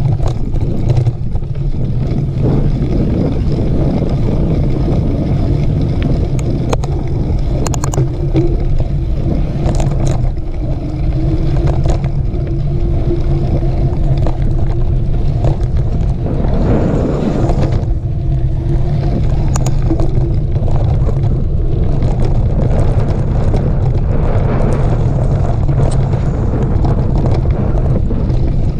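Steady low wind rumble on the microphone, with scattered clicks and rattles and a faint steady hum through the middle.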